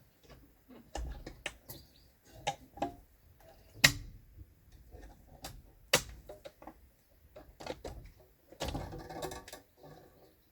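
Hand tools and metal being handled at work: scattered clicks and knocks, with a sharp knock about four seconds in and another about six, then a short rustling clatter near the end.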